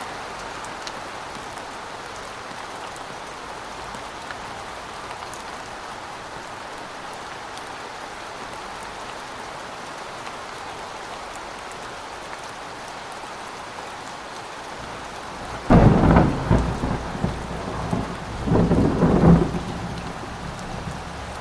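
Steady heavy rain, then a loud clap of thunder about sixteen seconds in that rumbles on in two surges over the next four seconds before the rain alone is left.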